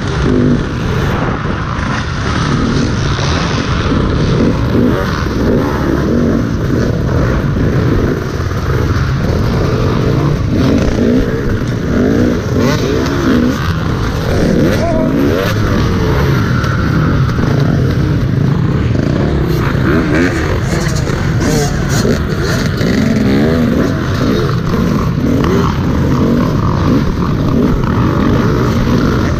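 Dirt bike engine revving up and down again and again as it is ridden hard through an off-road race course, heard from a helmet-mounted camera. A few sharp clicks about twenty seconds in.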